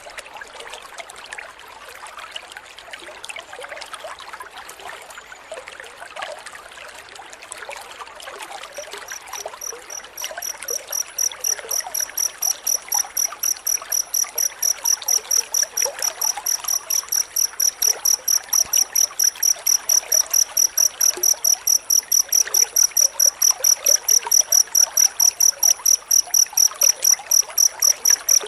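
A cricket chirping in a fast, even rhythm of about four high-pitched chirps a second, starting about a third of the way in and continuing steadily. Before it, a dense crackling hiss fills the background.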